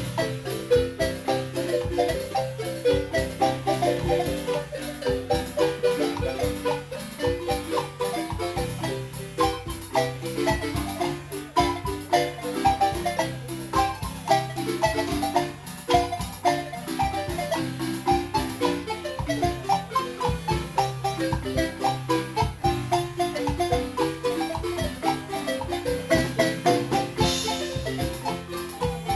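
Live marimba music: several players striking wooden bars with mallets in a brisk, steady rhythm, with a repeating bass line under quick melody notes.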